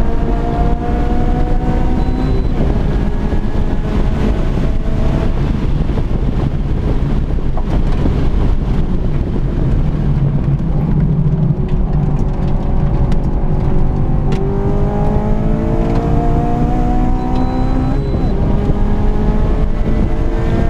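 Honda Civic FG2 engine heard from inside the cabin under hard acceleration, its pitch climbing and dropping back at upshifts in the first few seconds. It eases off into a rougher, lower sound with road noise through the middle, then climbs again with another upshift near the end.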